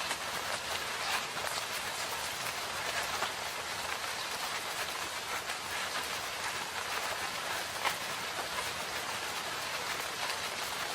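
Steady rain falling in a forest, an even hiss with individual drops ticking on leaves and surfaces, a few louder drops now and then.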